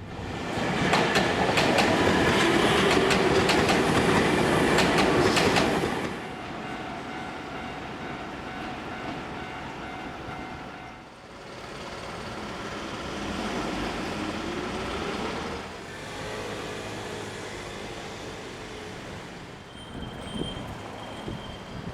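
Keio 1000 series electric train passing over a level crossing, its wheels clattering loudly over the rail joints for about six seconds. Quieter train running follows, with a motor whine that rises in pitch partway through.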